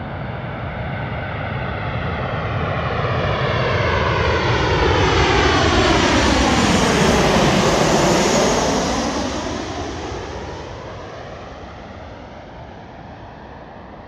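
Jet airliner on landing approach passing close overhead. The engine noise builds to its loudest about seven seconds in, with a sweeping, phasing tone that drops and rises again as it passes, then fades away.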